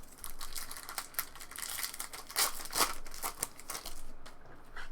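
Crinkling and tearing of a trading-card pack wrapper being opened, with short rustles and crackles of the wrapper and cards being handled.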